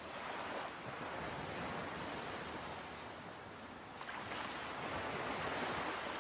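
Sea and wind: a steady rushing noise of waves and moving air that swells about four seconds in.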